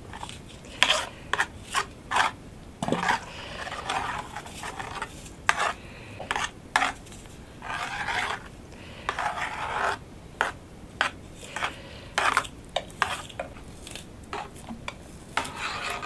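Kitchen utensils clinking and scraping against pots and dishes: sharp, irregular clicks mixed with a few longer scrapes.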